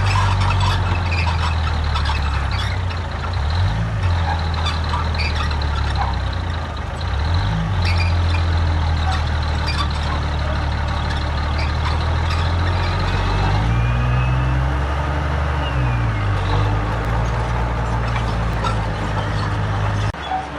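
Heavy diesel engine of earthmoving machinery running under load. Its pitch dips briefly twice, then rises and falls again in the second half, and the sound cuts off abruptly near the end.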